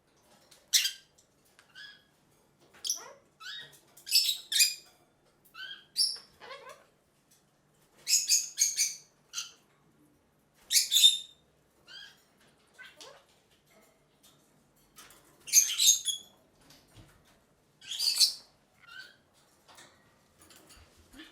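Birds giving short, shrill chirps and calls in irregular bursts, sometimes several in quick succession, with brief quiet gaps between.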